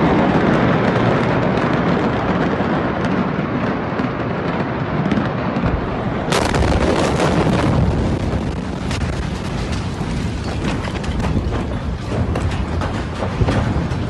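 Loud, continuous roar of the Beirut port explosion and fire. About six seconds in a sudden sharper burst sets off dense crackling and popping that runs on.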